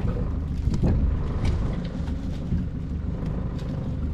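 A boat's motor running steadily at low speed, with wind buffeting the microphone and a few short clicks and knocks.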